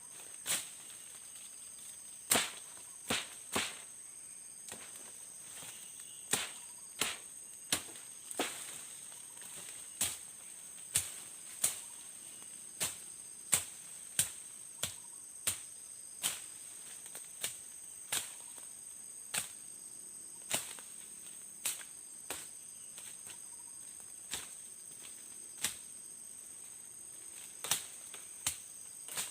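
Sharp chopping strikes, irregular and about one a second, as undergrowth is cleared for a tent site. Behind them, forest insects keep up a steady high buzz.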